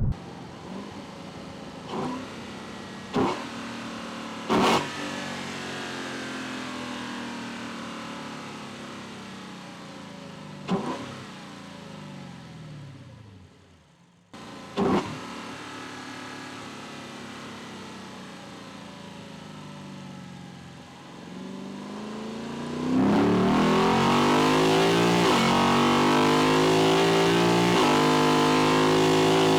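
Lexus LC 500's 5.0-litre 2UR-GSE V8 heard through its intake from the engine bay: the engine note falls away as the car slows, with a few sharp knocks in the first half. In the last six seconds it pulls hard and loud under acceleration, the induction noise rising.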